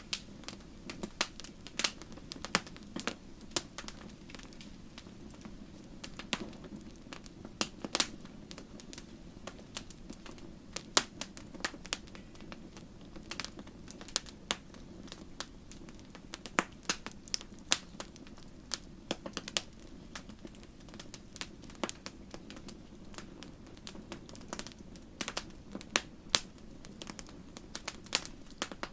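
Wood campfire crackling and popping: many irregular sharp snaps over a steady low rush of burning flames.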